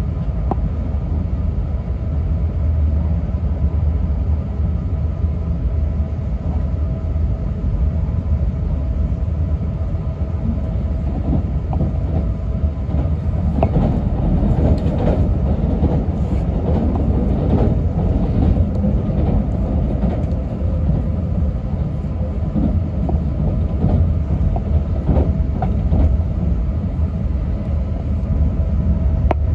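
Running noise of an E6 series Komachi shinkansen train heard inside the passenger cabin: a steady deep rumble with a faint hum and scattered clicks from the running gear.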